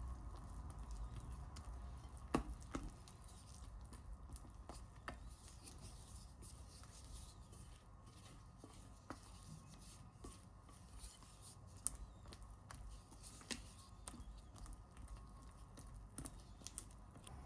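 Faint, scattered light clicks and taps over a low steady hum, with a sharper click about two and a half seconds in and another about twelve seconds in.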